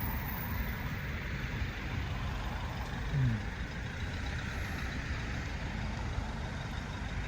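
Steady rumble of road traffic, with a brief low falling tone about three seconds in.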